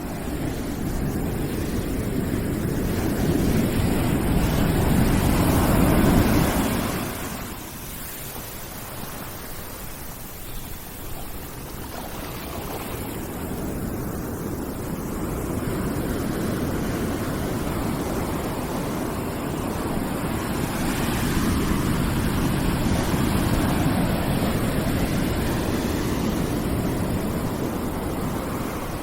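Ocean surf: continuous rushing noise that swells and falls back, a surge building to a peak and dropping away about seven seconds in, then a slower swell building again.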